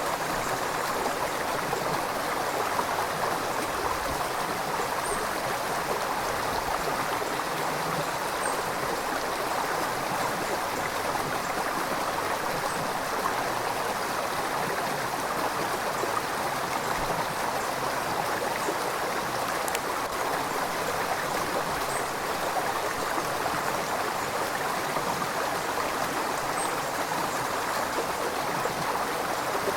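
River water flowing and splashing over rocks, a steady, unbroken rush, with faint high chirps here and there.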